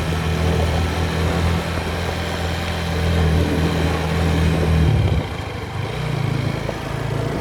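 Motorcycle engine running at a steady pace while riding, then its note drops off about five seconds in as the throttle eases.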